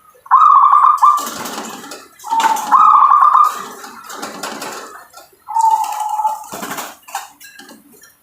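Zebra dove (perkutut) cooing: three rolling, trilled coos with short sharp clicks between them.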